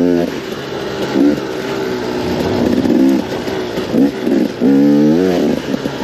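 KTM 250 XCW two-stroke dirt bike engine being ridden, its pitch swinging up and down with the throttle, with sharp revs about a second in, at about four seconds and again around five seconds.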